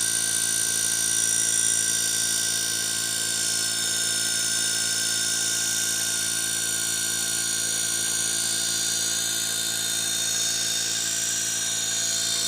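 Hitachi 3-ton inverter air conditioner running steadily after repair, its compressor now working: an even machine hum with a high, constant whine layered over it.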